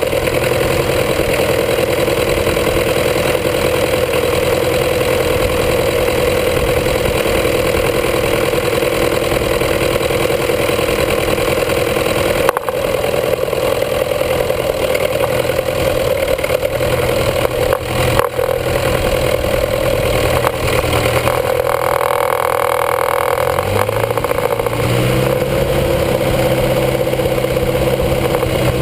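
International B250 tractor engine running hard and steadily during a pull, heard from beneath the tractor near the drivetrain and rear tyres. The engine's note shifts about three-quarters of the way through.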